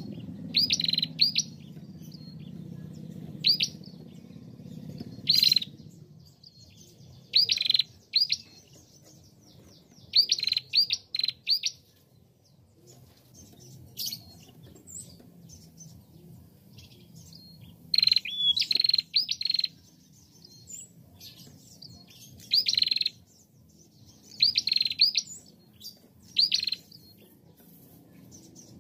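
A female prenjak calling in quick clusters of sharp, high chirps, two to four notes at a time, repeated every one to three seconds.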